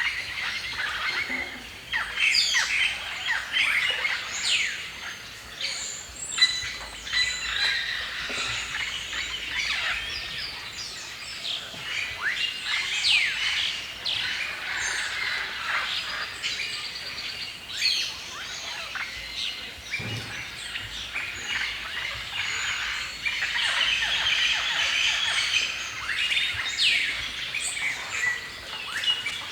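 Several songbirds chirping and singing at once, a dense chorus of quick chirps, trills and short downward-sweeping whistles.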